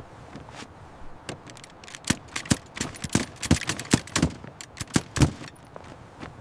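A quick, irregular run of sharp knocks and clatters of hard objects striking, densest and loudest from about two to five and a half seconds in.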